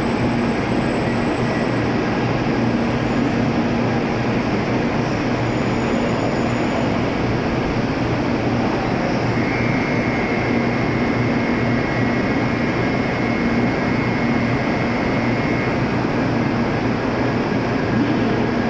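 N700-series Shinkansen train at the platform, a steady rumbling noise of train machinery and running gear, with a faint high whine for several seconds in the middle.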